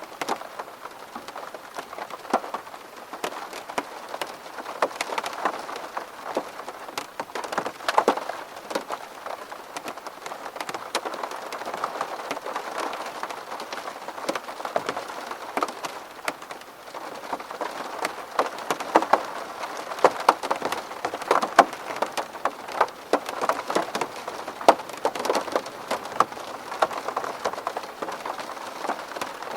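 Steady rain falling on a window, a dense patter of separate drops striking the glass.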